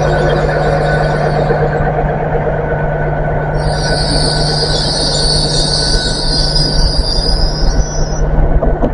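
A train running slowly with a steady low rumble. About three and a half seconds in, a loud high-pitched squeal from its wheels sets in, lasts about five seconds, and then dies away.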